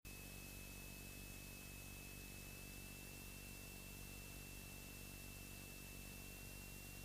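Faint steady hiss and low hum from a light aircraft's cockpit audio feed, with a thin, steady high-pitched whine. It cuts in suddenly from dead silence.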